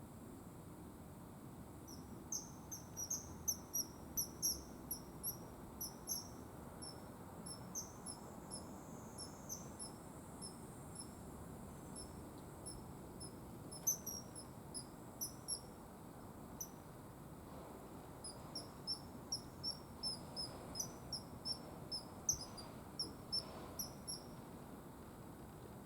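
Common kingfisher calling: a long series of short, high-pitched piping notes, coming in quick irregular runs of several a second, starting about two seconds in and stopping shortly before the end, over a faint steady hiss.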